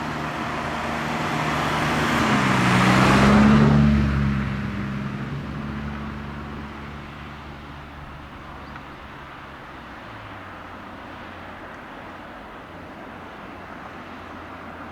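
A road vehicle passes close by, its engine tone dropping in pitch as it goes past about three seconds in, then fading away.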